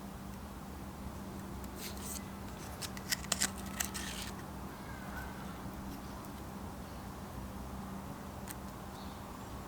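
A handful of light clicks and taps from small parts or hand tools being handled, bunched together a couple of seconds in, over a faint steady hum.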